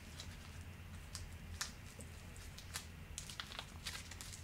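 Plastic wrapping around a bundle of circuit boards being cut and handled: a few faint, scattered crinkles and clicks.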